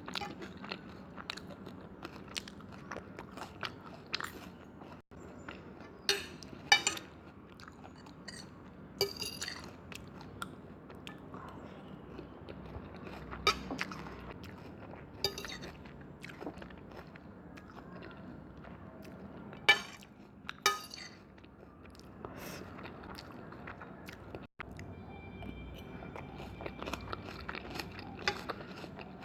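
Close-miked eating sounds: chewing with scattered crunchy bites and short sharp clicks, a few of them much louder than the rest.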